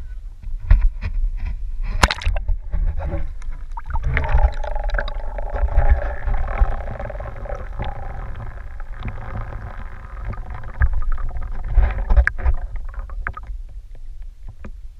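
Kayak on the water: a low rumble throughout, with scattered sharp knocks of the paddle and hull. A wavering tone is heard from about four to nine seconds in.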